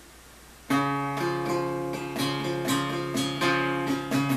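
Epiphone Hummingbird acoustic guitar strumming chords in a steady rhythm, starting under a second in after a brief hush: the intro of a country song.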